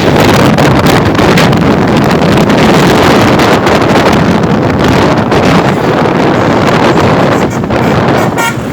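Loud wind buffeting the microphone over the running noise of a motorcycle at speed, steady throughout. A brief higher-pitched sound comes just before the end.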